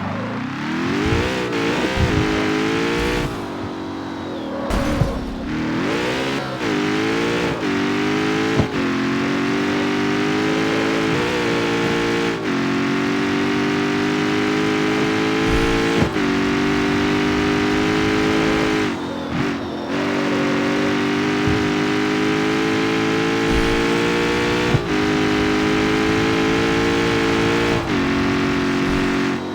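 Jaguar F-Type's supercharged V8 accelerating through the gears: the engine note climbs in each gear and drops at a string of upshifts. Sharp cracks come at several of the shifts.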